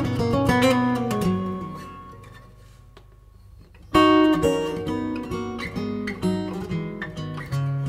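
Background music on plucked acoustic guitar: a run of notes that dies away about two seconds in, a brief pause, then a new phrase starting about four seconds in.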